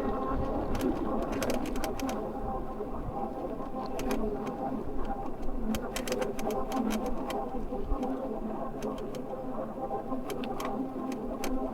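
Electric bike's assist motor whining steadily, its pitch drifting slightly, with scattered sharp clicks and rattles over it.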